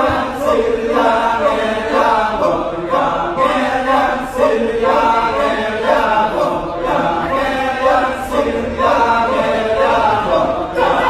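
Kecak chorus: a group of voices chanting and singing a cappella in unison, in repeated phrases of a second or two.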